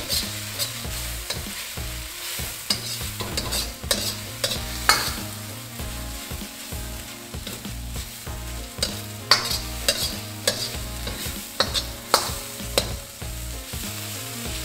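Egg noodles stir-frying in a wok: steady sizzling, with a metal wok ladle scraping and knocking against the pan as the noodles are tossed. There are several sharp clanks scattered through, the loudest about 5, 9 and 12 seconds in.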